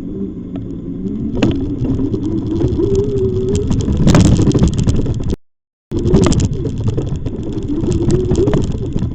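Riding noise on an e-bike: a low rumble of wheels and wind with a slowly wavering motor-like whine, cut by a brief total dropout about halfway through.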